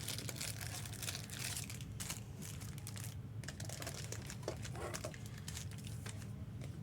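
Plastic and foil trading-card packaging crinkling in irregular crackles as it is handled, over a steady low hum.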